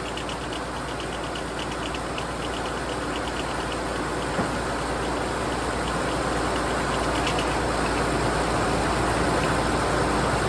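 Frick 00 circular sawmill cutting through a log, squaring up a cant, with the belt-driving Case 401D diesel engine running under load; the noise builds steadily through the cut.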